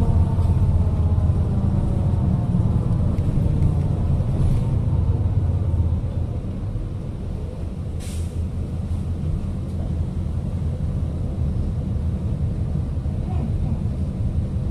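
City bus engine and drivetrain running, heard from inside the bus, with a whine falling in pitch at the start. About eight seconds in comes a short hiss of air from the air brakes.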